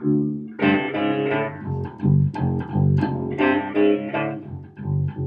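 Wolf KTB six-string fretless electric bass played in a busy riff of a dozen or so quick plucked notes.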